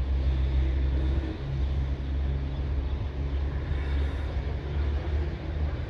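Steady low rumble and hum of ONCF electric locomotive E 1480 approaching with its train.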